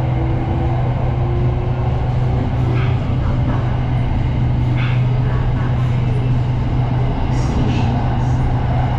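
SRT Red Line electric commuter train running, a steady low hum over even rumbling noise.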